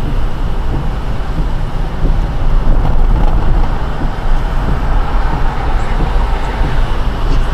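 Steady rumble of a car driving on a wet road in the rain: tyre and road noise, heavy in the low end, with an even hiss of spray above it.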